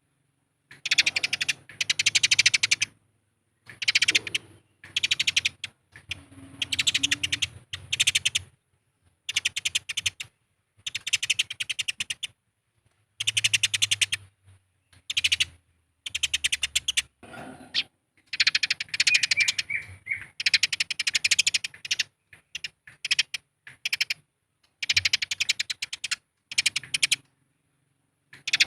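Eurasian tree sparrows giving agitated fighting chatter: fast rattling runs of chirps in repeated bursts of a second or two, with short silent gaps between them.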